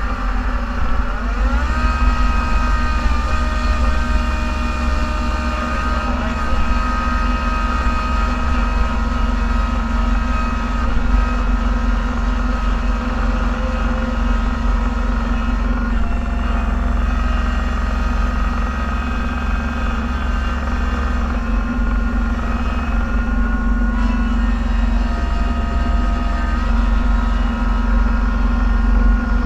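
Snowplow vehicle's engine running, heard from inside the cab: a steady low drone with a whine that rises in pitch about a second in and shifts up and down a few more times as engine speed changes while plowing.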